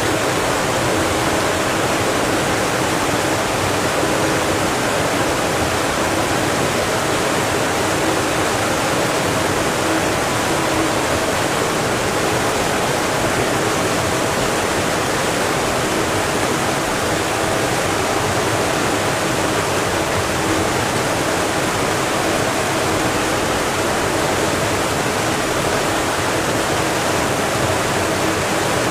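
Steady, unbroken rushing noise with a faint low hum in it.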